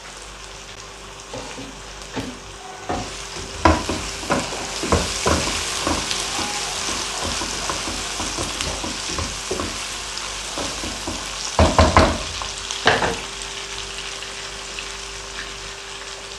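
Sliced onions and garlic cloves sizzling in hot oil in a non-stick wok, a steady hiss. A wooden spatula stirs them, knocking and scraping against the pan, with the loudest knocks a few seconds in and again about twelve seconds in.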